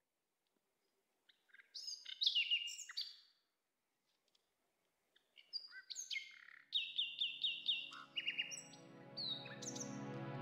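Birds chirping and whistling: a short burst of varied calls about two seconds in, then after a pause a busier run of calls that includes five quick falling whistles. In the second half a sustained music chord fades in under them and swells.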